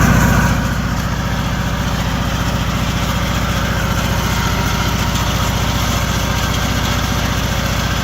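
Riding lawn mower's small engine running steadily, a fast even pulsing, easing slightly in level about half a second in.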